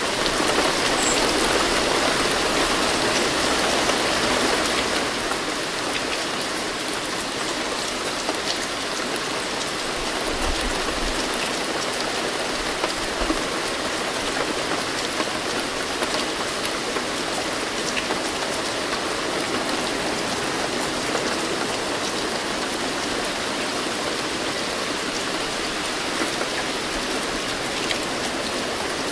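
Steady rain falling, a dense even hiss with scattered individual drop taps, a little heavier for the first few seconds before settling.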